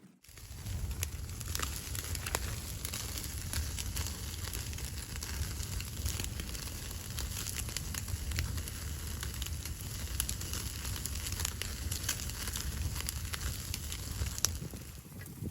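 Wood fire crackling, with frequent sharp pops over a steady low rumble.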